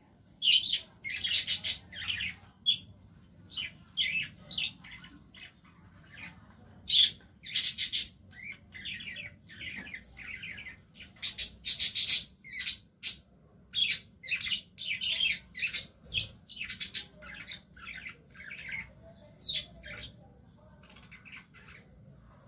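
Birds chirping and squawking: short, high calls, many in quick runs with brief pauses between.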